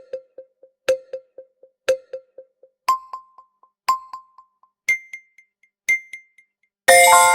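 Quiz countdown timer sound effect: short electronic beeps once a second, each trailed by quickly fading echoes, jumping up in pitch twice as the countdown runs. Near the end a loud, bright chime chord strikes and rings out, marking time up for the answer.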